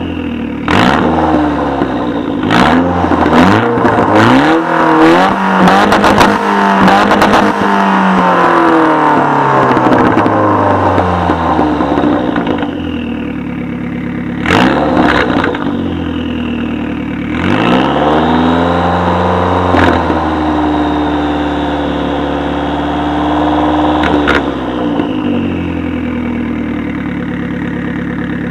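1999 Saab 9-3 Turbo's turbocharged four-cylinder engine on a full straight-pipe exhaust, revved in a rapid run of blips for about twelve seconds, then in three longer rises and falls that drop back to idle, with a few sharp cracks along the way.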